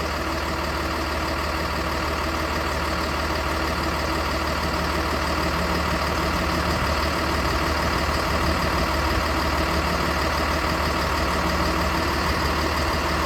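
School bus engine idling steadily with the chassis air conditioning running while refrigerant is slowly charged into the system.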